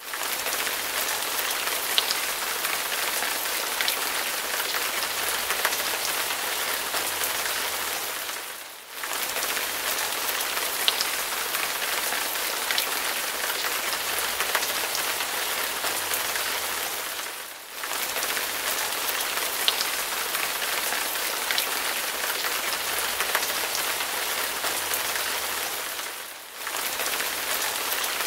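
Heavy rain falling in a steady hiss with scattered sharp drop ticks. It fades out and back in three times at even gaps of about nine seconds, the same stretch repeating each time: a looped rain recording.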